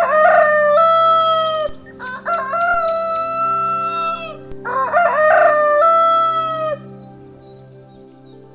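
Rooster crowing three times in a row, each crow about two seconds long, the last ending about two seconds before the close.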